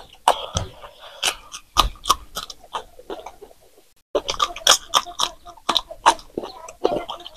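Close-miked crunchy chewing and biting of raw green chillies, a quick run of sharp crackling crunches with a brief gap about four seconds in.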